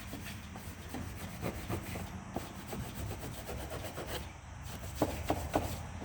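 Soft-bristled wheel brush scrubbing surfaces in a car's engine bay: a run of quick, uneven strokes, with a few sharper, louder strokes about five seconds in.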